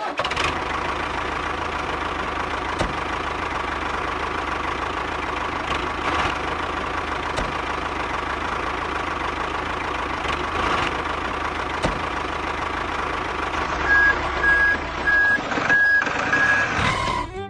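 A vehicle engine running steadily. Near the end come reversing beeps: three short beeps, then a longer one.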